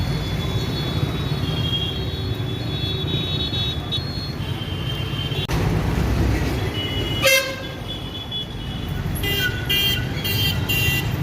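Street traffic with a steady engine rumble and vehicle horns honking: one loud blast about seven seconds in, then several short honks near the end.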